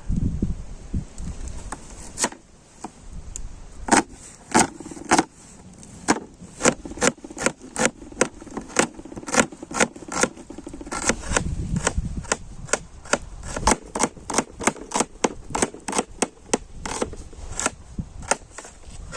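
A long series of sharp knocks or clicks, about two or three a second and somewhat uneven, starting a few seconds in over a low rumble.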